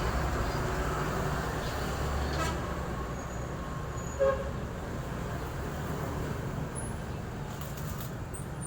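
Road vehicle engine and traffic running steadily, with one short horn toot about four seconds in.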